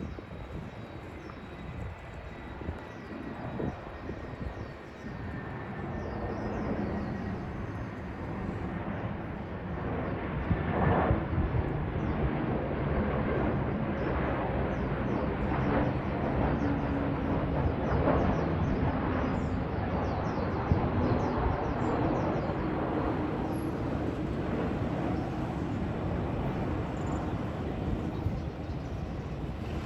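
Jet airliner engines rumbling, growing louder over the first ten seconds or so and then holding steady.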